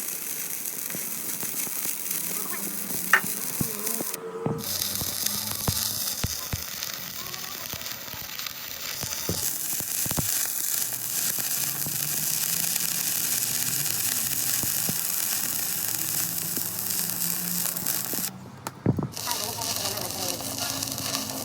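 Electric arc welding: a steady crackling sizzle of the arc, which breaks off briefly twice, about four seconds in and again near the end.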